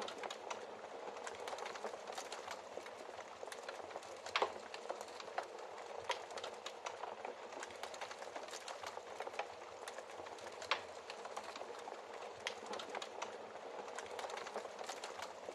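Wood fire crackling in a fireplace: a steady hiss with dense small crackles and a few louder sharp pops, about four seconds in and again near eleven seconds.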